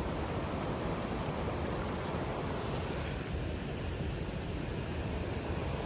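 Steady rush of high, fast-moving floodwater pouring across a low road crossing after heavy rain.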